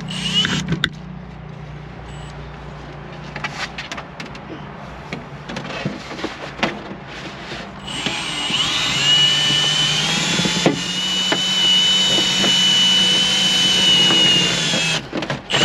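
Windshield cut-out line being wound in and drawn through the urethane bead: scattered clicks and rubbing at first, then about halfway through a steady power-tool-like run with a low hum and a high, wavering squeal from the line sawing through, which stops just before the end.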